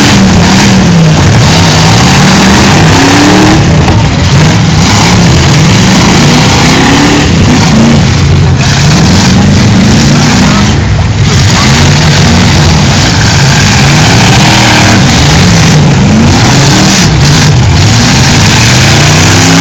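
Demolition derby cars' engines revving up and down over and over, very loud throughout.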